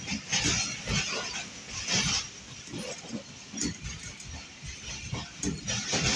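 Passenger train running along the track, heard from an open coach window or door: a steady rumble of wheels on rails with an uneven rushing clatter that surges louder every second or two.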